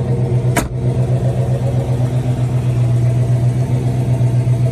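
A 350 small-block Chevy V8 with Flowmaster mufflers idling with a steady, even exhaust drone. A single sharp knock about half a second in.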